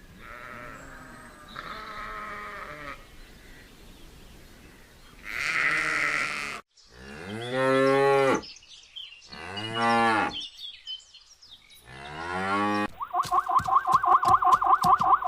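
Cattle mooing: several separate long calls, each rising and then falling in pitch. Near the end comes a rapid pulsing call of another animal.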